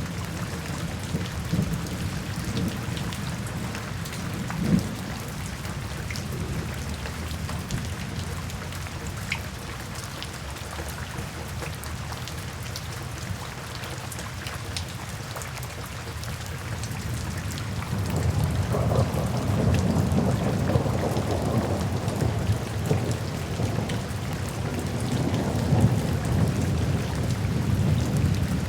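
Steady rain with fine drops pattering, and a low rumble of thunder swelling up about two-thirds of the way in and rolling on.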